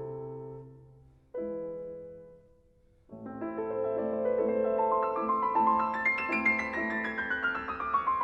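Background piano music: a held chord fades away, a second chord rings and dies out, then about three seconds in a fast run of notes climbs and falls back.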